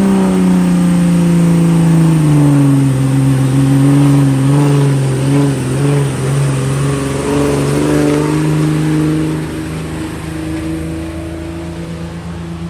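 Pulling vehicle's engine running hard at high revs during a sled pull; its pitch drops about two seconds in and then holds steady, and it gets quieter near the end.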